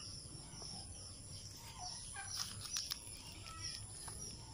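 Faint outdoor ambience with a few scattered bird calls over a steady high hiss, and a few brief light clicks.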